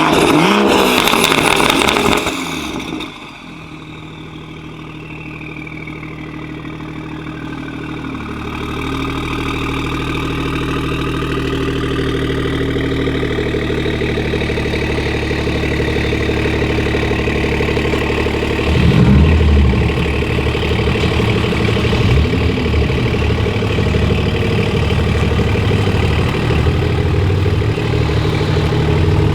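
Tuned BMW 540i Stage 2 engine: loud for the first few seconds, then dropping back to a steady running note that grows louder over several seconds and holds, with a short rev about two-thirds of the way through.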